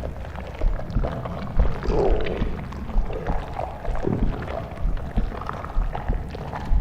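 Blizzard wind ambience: gusting wind with a low, uneven rumble.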